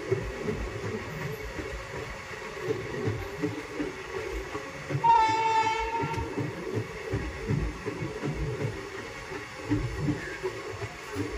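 Indian express train running through a junction without stopping: a steady rumble with irregular wheel clatter, and the locomotive's horn sounding once for about a second, about five seconds in.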